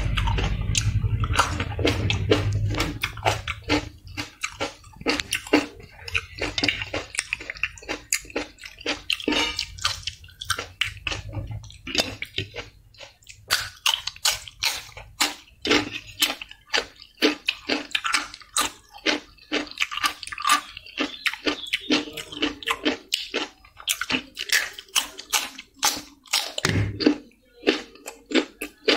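Close-up chewing and biting: a person crunching raw vegetable slices with wet mouth clicks, dozens of short crunches one after another. Background music fades out over the first few seconds.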